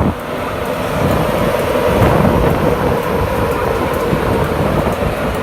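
A train running past close by: a loud, steady rumble with a faint steady hum.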